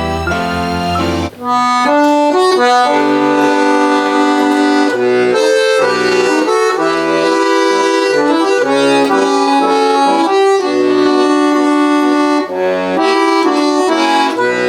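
Accordion playing the instrumental introduction to a song: a low held chord, then from about a second and a half in, a melody over sustained chords.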